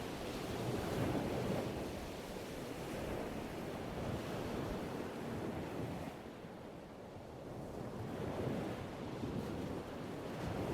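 Ocean surf washing ashore in a soft, steady hiss of waves that slowly swells and eases, quietest a little past the middle.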